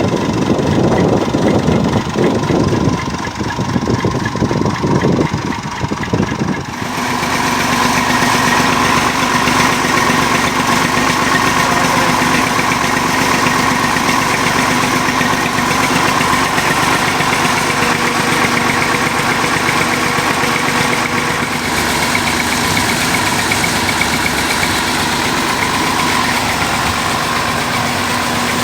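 Massey Ferguson 240 tractor's three-cylinder diesel engine running steadily while driving a water-lifting system. About seven seconds in, the sound changes abruptly from a rougher, pulsing running to a steadier drone with a constant hum.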